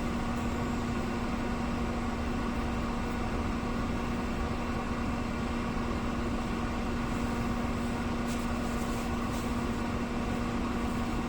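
Steady mechanical hum at a fixed pitch, unchanging throughout.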